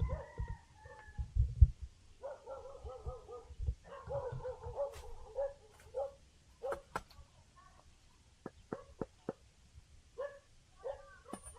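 Whining animal calls, wavering in pitch and repeated in runs of a second or so. Low thumps come in the first two seconds, with a few sharp clicks later.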